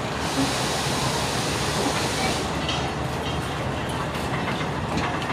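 Passenger train pulling out: a steady rumble of wheels on the rails, with a strong hiss for the first couple of seconds and then scattered clicks of wheels over rail joints.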